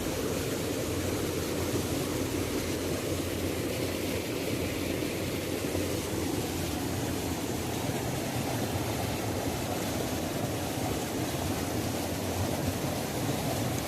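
Waterfall rushing steadily, a continuous low-pitched roar of falling water with a fainter hiss above it.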